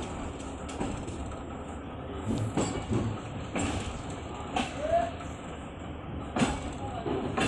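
Train running with a steady low rumble and a string of unevenly spaced knocks from the wheels and carriages.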